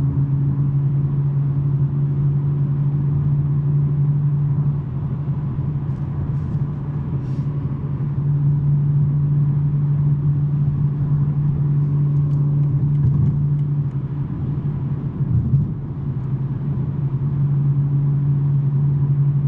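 BMW M3 G80's twin-turbo inline-six, breathing through a non-resonated J-pipe exhaust, droning steadily while driving. The drone eases twice, about five seconds in and again around fourteen seconds, then comes back.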